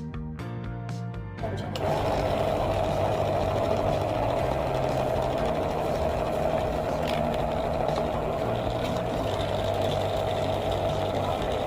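A small electric motor, of the kind that shakes a homemade earthquake model, switches on about a second and a half in and runs with a steady whirr. Music plays before it starts.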